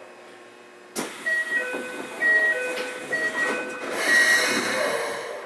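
Inside a Keikyu 600 series train car standing at a station: a sharp knock about a second in, then a short electronic melody of clear high notes changing pitch every fraction of a second, with a burst of air hiss near the end.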